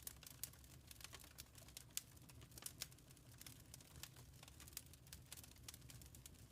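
Faint crackling of a wood fire in a fireplace: irregular sharp pops and snaps, several a second, over a low steady rumble.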